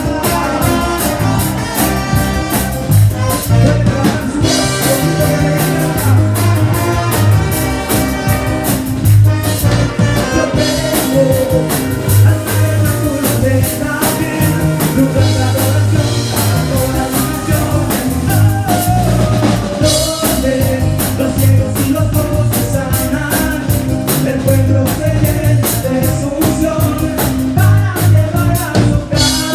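Band music with a steady drum-kit beat and bass, a voice singing over it.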